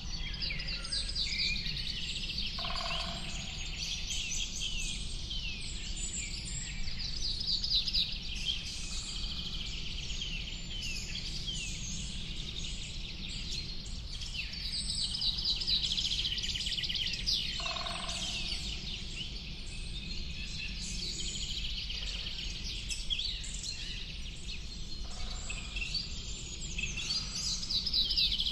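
Many small birds chirping and trilling at once in a dense, continuous chorus, with a lower two-note call about three seconds in and again about eighteen seconds in, over a steady low rumble.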